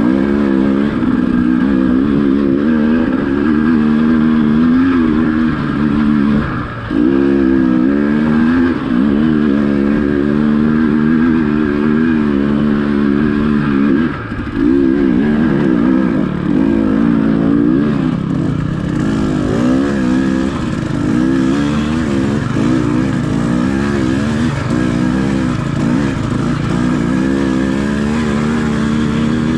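Enduro dirt bike engine running under load on a trail, its note rising and falling with the throttle and dipping briefly twice.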